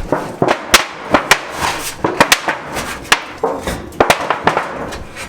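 A quick, irregular series of sharp knocks and clatters of hard objects striking one another, a dozen or so in a few seconds.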